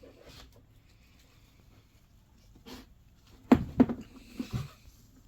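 Plastic headlight lens being pressed and knocked into place on its housing, seating into heat-softened butyl sealant: a single click, then a quick cluster of about five knocks starting about three and a half seconds in.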